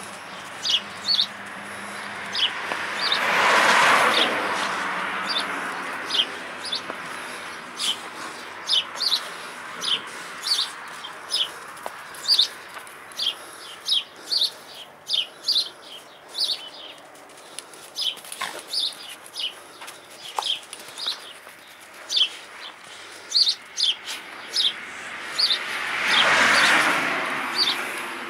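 A small bird calling over and over, a short high chirp about once or twice a second, steady throughout. Twice, a few seconds in and again near the end, a broad rushing noise swells up and fades away over a few seconds, louder than the chirps.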